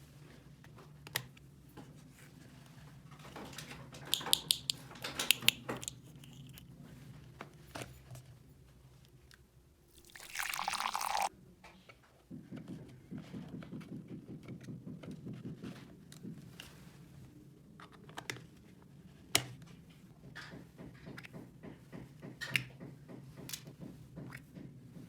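Small plastic toy pieces being handled: scattered light clicks and rustling, with a short noisy burst about ten seconds in, over a low steady hum.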